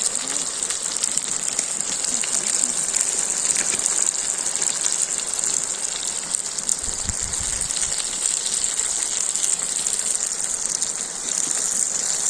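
Steady sizzling hiss with faint crackles from a kazan of chicken and vegetables cooking over a campfire, with a brief low thud about seven seconds in.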